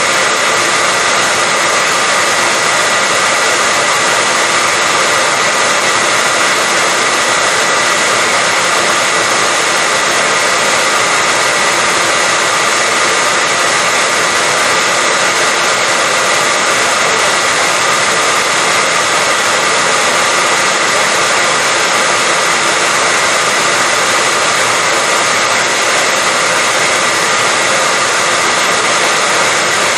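Hand-held hair dryer running steadily: an even, loud whoosh of blown air with a steady high whine from its motor, with no change in speed.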